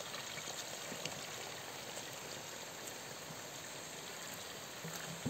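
Water running steadily from a mountain spring fountain's spout.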